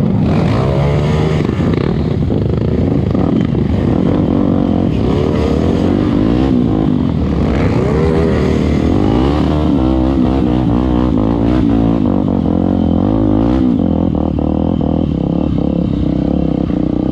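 Trail motorcycle engines revving up and down, more than one at a time, their pitch rising and falling repeatedly.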